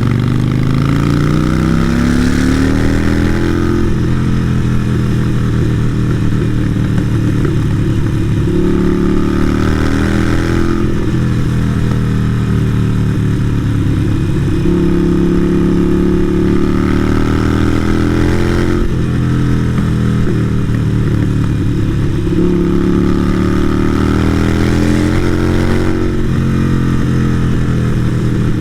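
Harley-Davidson Sportster 883 Iron's air-cooled V-twin running through a Vance & Hines exhaust while riding, its pitch climbing as it accelerates and dropping back about four times.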